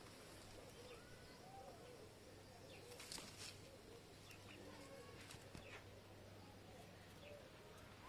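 Faint, scattered bird calls: many short rising-and-falling notes, with a few brief sharp clicks or rustles a few seconds in.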